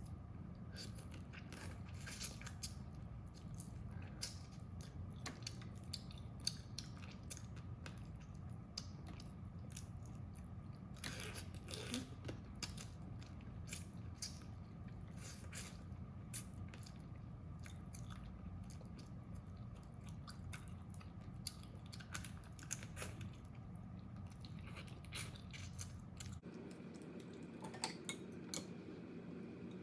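Close-miked eating of crab: frequent sharp crackles and crunches of shell being bitten and chewed, over a steady low hum that drops out near the end.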